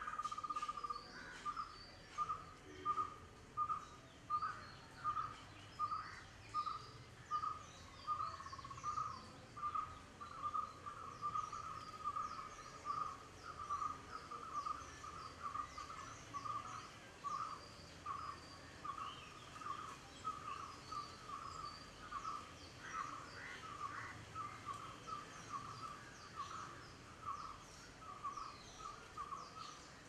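A bird repeating one short mid-pitched note about twice a second in a long, even series that grows a little fainter toward the end, with faint high chirps of other birds over it.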